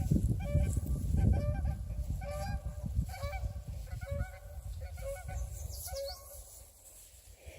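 A rapid series of short, high, pitched animal calls, about two or three a second, fading toward the end.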